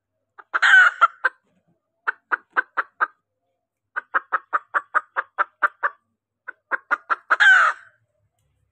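Junglefowl hen calling: runs of short, rapid clucks, about four or five a second, framed by a louder harsh call about half a second in and another near the end. It is a lure call of the hen, used to draw in cock junglefowl.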